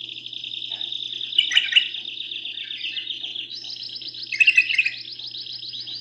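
Domestic canary singing a long, rapid trill of repeated high notes, switching to a slightly higher trill a little past halfway. Short, louder chirping phrases break in over the trill about a second and a half in and again about three seconds later.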